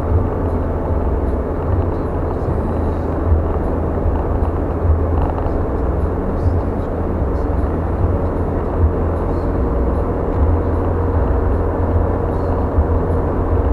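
A car on the move, with a steady low rumble of engine and tyre noise.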